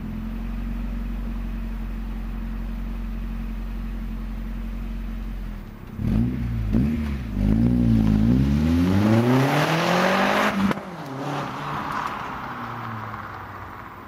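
1999 Audi A4 1.8T quattro's turbocharged four-cylinder engine holding a steady low speed, then blipped twice and revved in one long rising pull that cuts off suddenly, followed by a rushing hiss that fades away.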